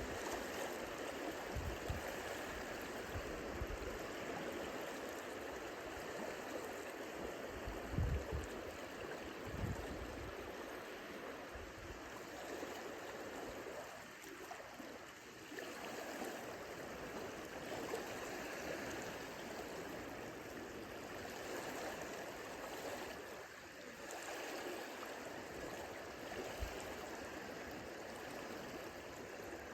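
Small Lake Michigan waves lapping and washing on the shoreline, a steady watery wash. There are a few soft low thumps in the first ten seconds.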